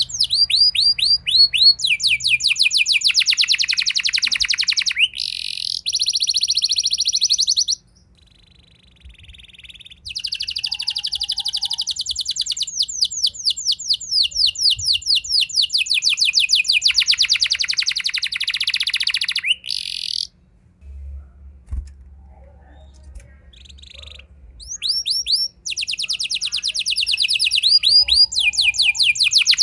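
Domestic canary singing rolling song: long, fast trills of rapidly repeated high, sweeping notes in three phrases, with short breaks between them.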